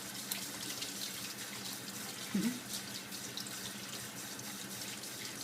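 Tap water running into a sink, with small splashes and drips as a green-cheeked conure bathes in it. A brief low sound comes a little over two seconds in.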